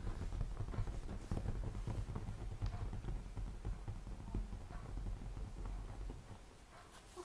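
Rapid, irregular tapping and scuffling of an African grey parrot tussling with a person's hands close to the microphone, easing off near the end.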